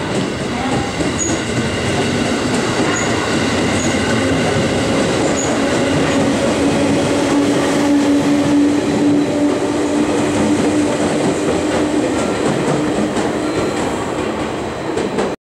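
JR Central 311 series electric multiple-unit train running along the platform track, its wheels clattering on the rails. A steady squealing tone joins in about six seconds in and fades out near twelve seconds. The sound cuts off suddenly at the very end.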